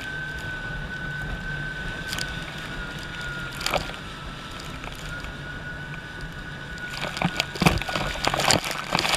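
Jet ski engine running with a steady high whine and low hum. From about seven seconds in, irregular bursts of water spray and wind hit the microphone.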